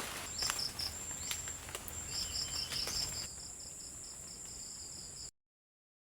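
Insects chirping in rapid high pulses, several a second, over a thin steady high whine, with a few scattered clicks in the first half. The sound cuts off abruptly about five seconds in.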